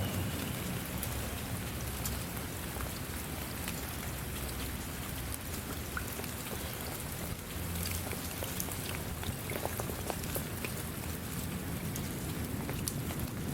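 Steady rain falling, an even hiss with scattered ticks of individual drops and a low rumble underneath.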